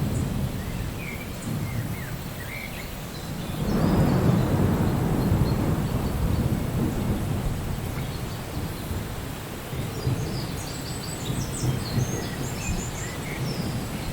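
Steady rain with a low roll of thunder that swells about four seconds in and slowly dies away. Faint bird chirps come through the rain near the start and again near the end.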